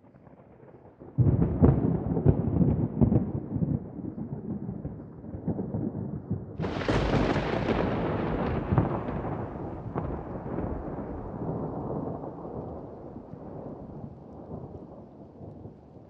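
Thunder: a crackling clap about a second in rolls into a rumble, then a second, sharper and brighter crack comes a few seconds later and rolls away in a long fading rumble.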